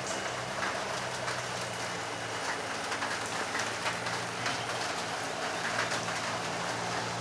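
Steady rain falling in many fine patters, over a low steady hum.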